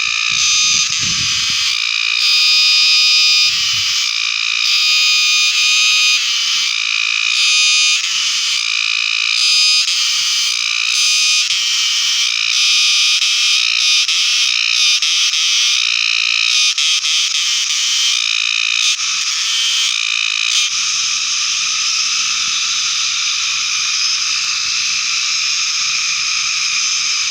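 Cicada singing close by: a loud, continuous, high buzz that pulses and wavers for most of the time and settles into a steadier drone for the last several seconds.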